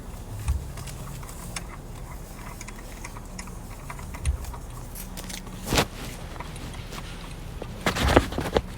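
Scattered light clicks and clinks of hand tools and metal parts being handled while unbolting engine parts, with a louder knock about six seconds in and a few more knocks near the end.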